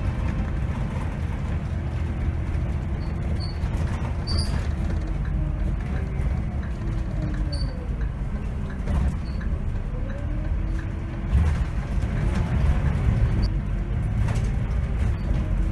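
Engine of a 2010 Scania K270 city bus running as it drives, heard from on board: a steady low drone whose pitch falls and then rises again a few times in the middle.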